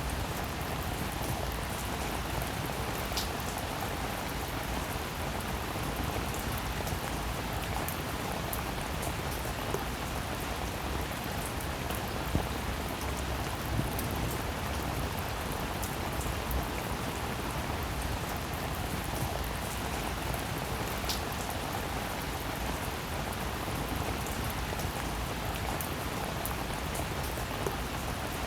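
Steady rain falling as an even hiss, with a few sharper single drop hits now and then.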